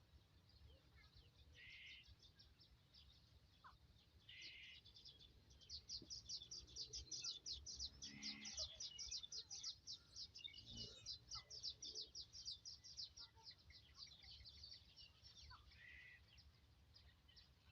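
Faint bird calls: a fast run of high chirps, several a second, that builds and then fades over about ten seconds in the middle, with a few single chirps around it.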